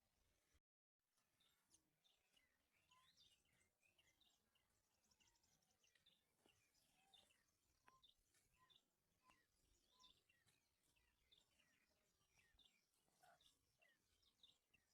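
Near silence, with faint scattered bird chirps and calls.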